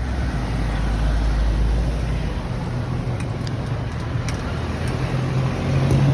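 A motor vehicle engine running steadily with a low hum, growing louder near the end, with a few light clicks about three to four seconds in.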